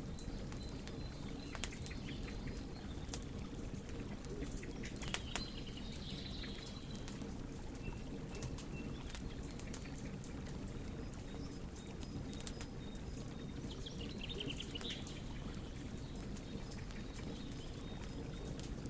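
Wood fire burning: irregular crackles and pops over a steady low rumble, a cluster of louder pops about five seconds in, and a few brief high chirps now and then.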